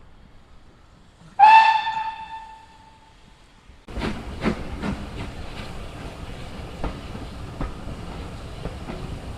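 A steam locomotive whistle gives one short, loud blast about a second and a half in. From about four seconds in, a steam train is heard running: a steady rumble with irregular sharp beats.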